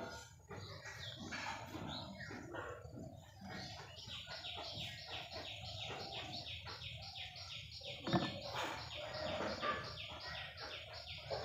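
Birds chirping faintly, one of them repeating a quick high chirp about four times a second for several seconds. A brief knock about eight seconds in.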